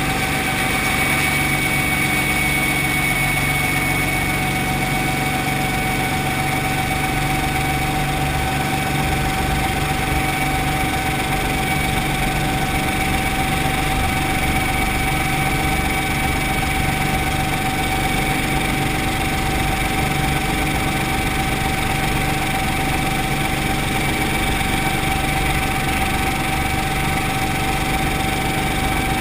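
Brantly B2B helicopter's four-cylinder piston engine and rotor running steadily, with a constant whine over the engine drone.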